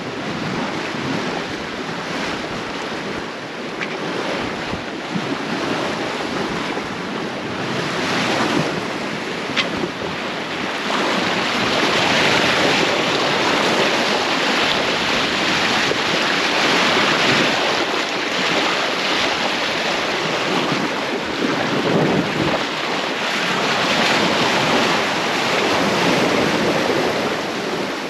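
Sea water rushing and splashing past a sailboat under way, with wind buffeting the microphone; the rush swells louder about a third of the way in.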